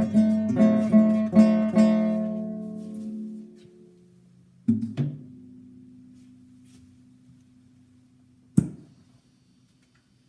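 Acoustic guitar strummed in an even rhythm; about two seconds in the strumming stops and the last chord rings out and fades. About halfway through a single chord is struck and left to ring, and near the end there is one sharp knock.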